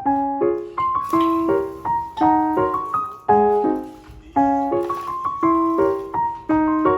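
Background piano music: a light tune of struck notes and chords, each fading after it is played.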